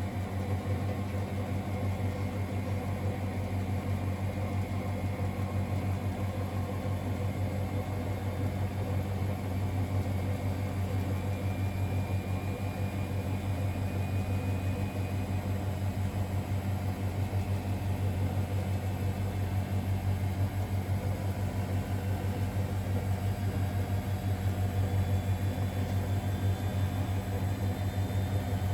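Miele Novotronic W921 washing machine running mid-cycle with a steady low motor hum, growing slightly louder near the end.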